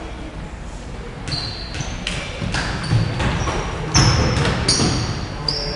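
Basketball game on an indoor court: a ball bouncing, with a few knocks, and short high squeaks of sneakers on the floor, thickest in the second half.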